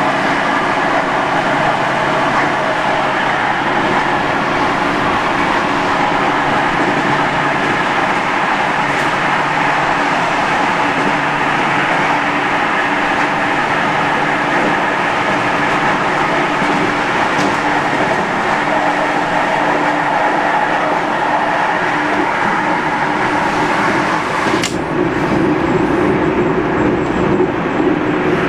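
Traction motors and running gear of a modernised SNCB AM80 electric multiple unit on the move, a steady whine of several tones over the rumble of the wheels on the rails. Near the end there is a sharp click, after which the sound turns duller.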